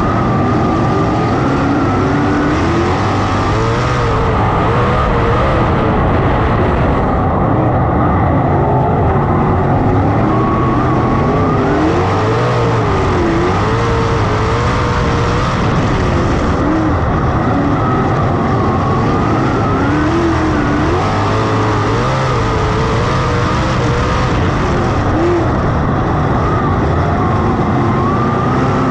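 410 sprint car V8 engines racing on a dirt oval, the revs rising and falling over and over as the cars lap.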